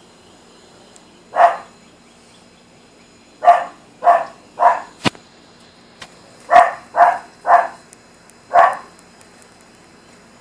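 A dog barking: eight short barks, a single one, then two quick runs of three, then one more. A sharp click falls between the two runs.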